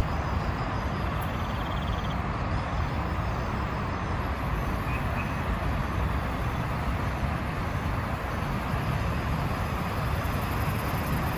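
Heavy rain falling with strong wind, a steady, even rush with no let-up.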